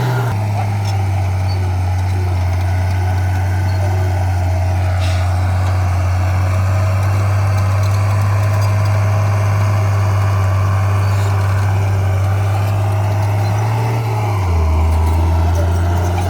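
Diesel engine of heavy earthmoving equipment running steadily with a deep drone, its pitch dropping lower near the end.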